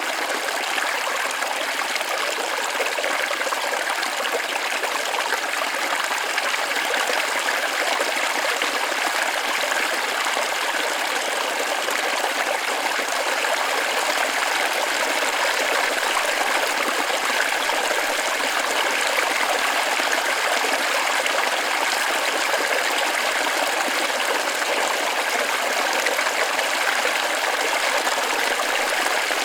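Small forest waterfall splashing and rushing steadily over rocks, an even hiss of falling water with no change.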